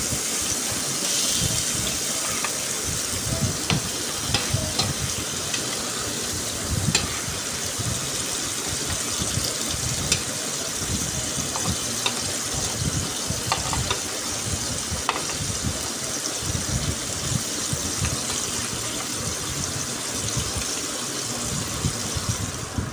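Kofta kebabs sizzling steadily as they shallow-fry in oil in a flat non-stick pan. Now and then there is a light click of a metal spatula, fork or spoon against the pan as the kebabs are turned.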